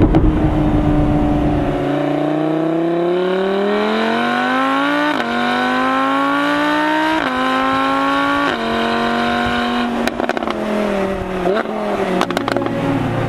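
Supercar engine accelerating hard through the gears: the revs climb steadily and drop at three quick upshifts about five, seven and eight and a half seconds in. After about ten seconds the throttle closes and the exhaust pops and crackles on the overrun, with the revs dipping and rising again near the end.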